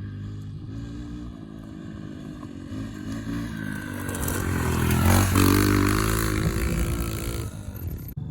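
Pit bike engine revving as the bike rides up and past, loudest about five seconds in, with a rush of dirt and tyre noise as it goes by. The sound cuts off abruptly just before the end.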